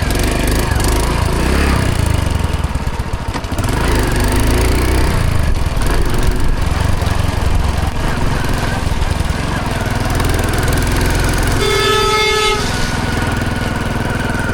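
Hero Honda CD100's single-cylinder four-stroke engine running steadily on the move. A horn sounds once for about a second near the end.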